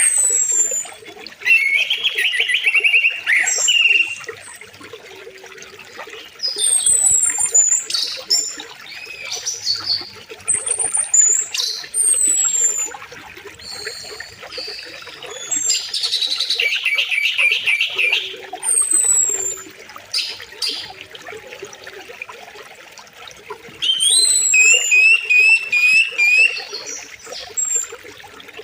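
Several songbirds singing and calling in bursts every few seconds, with rapid trills and quick falling whistles, over the steady rush of a flowing river.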